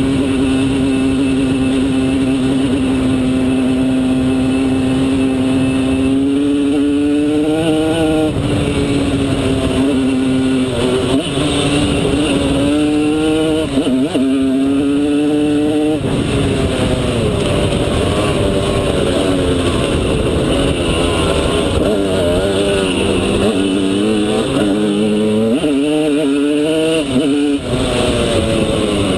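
Simson S51 Enduro's tuned 50 cc single-cylinder two-stroke engine under way. It holds steady revs for about six seconds, then revs climb and drop back several times as the rider works the throttle and gears.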